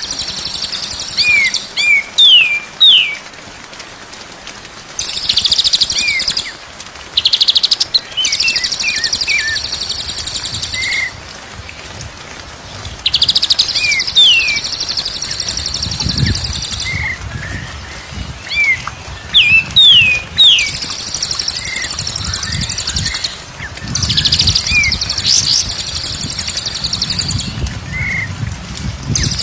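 White-rumped shama (murai batu) song: short, clear whistled notes sweeping up and down alternate with long, high, rapid chattering trills lasting one to three seconds each. A faint low rumble sits under the song in the second half.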